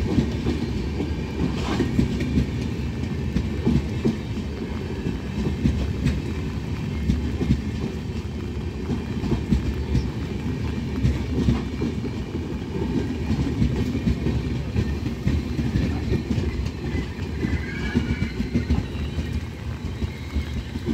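Passenger coaches of an Indian Railways express train rolling past at speed, a steady heavy rumble with the wheels clattering over the rail joints.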